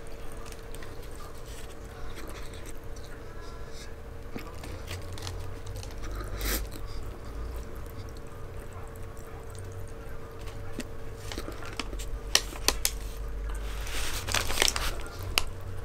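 A person chewing food close to the microphone, with scattered wet mouth clicks. A paper bag crinkles briefly near the end.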